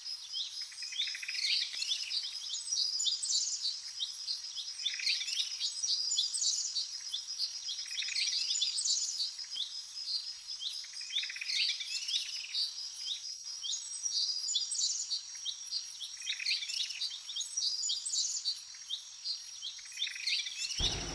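Birds chirping: short high chirps and falling whistles that come every second or so, over a steady high pulsing trill.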